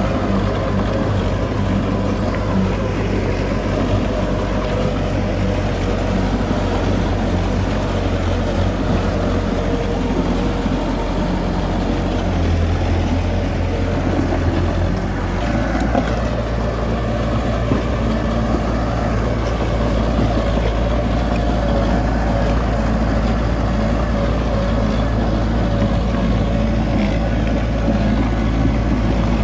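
Heavy diesel engine of earthmoving machinery running steadily, its low note shifting about halfway through as the load or revs change.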